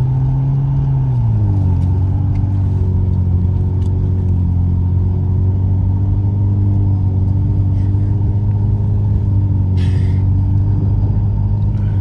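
BMW 335i's turbocharged straight-six engine running under steady throttle while driving. Its pitch drops about a second and a half in, then holds steady.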